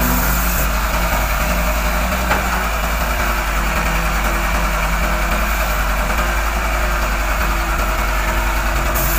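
Heavy earthmoving machinery's diesel engine running steadily at low revs.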